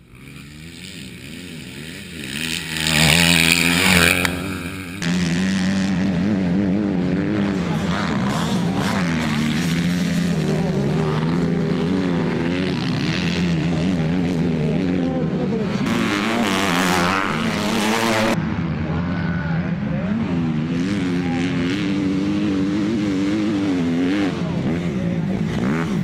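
Motocross bike engines revving hard and easing off as they race, their pitch rising and falling over and over. The sound changes abruptly a couple of times in the first five seconds.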